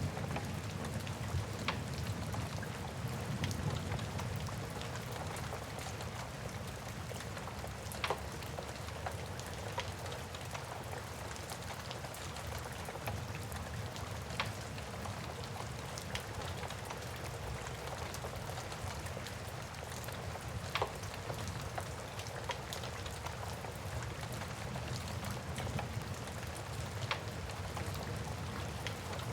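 Steady rain with a low rumble underneath, and sharp pops from a crackling wood fire every few seconds.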